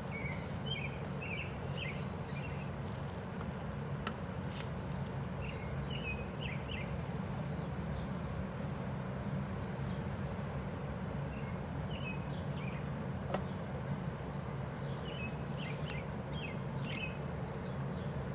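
Small birds chirping in short bursts of a few notes every few seconds, over a steady low hum. Two sharp ticks, about four and thirteen seconds in.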